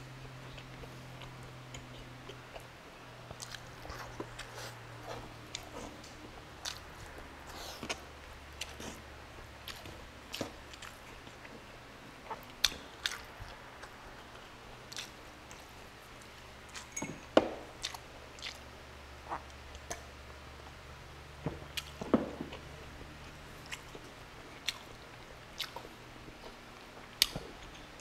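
Close-miked chewing of soft beef stew and rice, with irregular wet mouth clicks and smacks, two of them louder a little past the middle.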